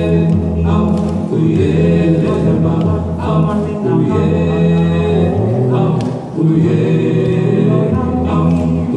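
Small a cappella vocal group singing a gospel song in close harmony, with a sustained low bass part under held chords that shift every second or so.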